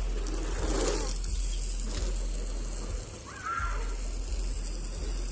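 Garden hose water spraying and splashing in a steady hiss, with a short high-pitched call about three and a half seconds in.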